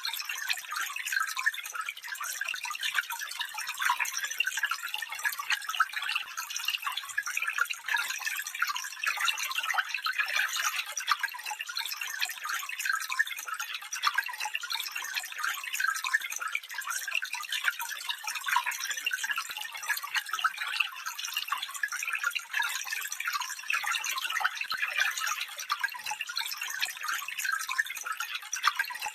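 Small stream burbling and trickling over stones, a steady mass of tiny splashes and gurgles with no deep rush.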